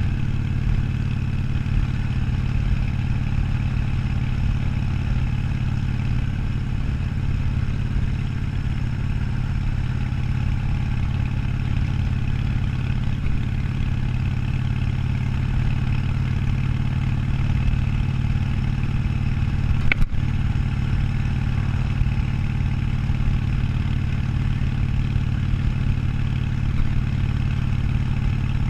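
Harley-Davidson Sportster 1200's air-cooled V-twin engine running at steady revs under way. One sharp click comes about two-thirds of the way through.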